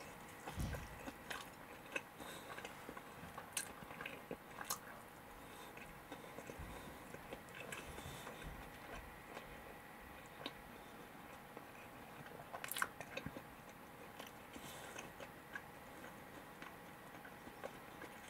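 A person chewing a mouthful of karaage (Japanese fried chicken) and rice, faintly, with scattered sharp clicks.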